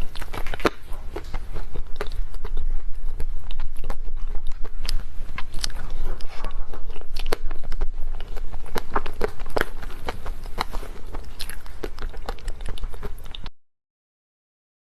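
Close-miked eating sounds of a person biting and chewing dessert, with many small wet clicks and crunches. The sound cuts off abruptly to dead silence near the end.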